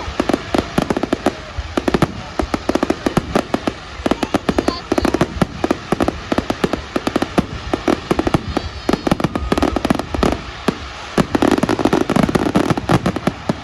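Fireworks display finale: a dense, rapid barrage of firework bangs and crackles, many a second, which stops at the end.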